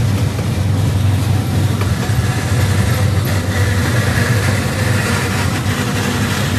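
Freight train cars rolling past on the tracks: a steady low rumble and drone with no sudden bangs.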